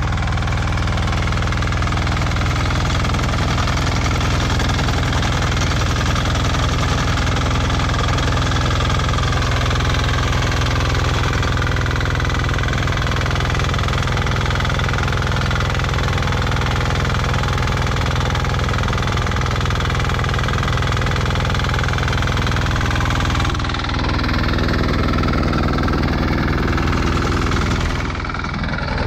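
Motor Sich walk-behind tractor's engine running steadily while digging potatoes with a KVG-1V digger. Its sound changes about three-quarters of the way through and dips briefly near the end.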